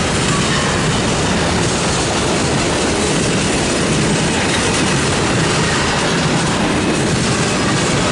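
Freight train passing close by: a loud, steady rumble and clatter of wheels on the rails.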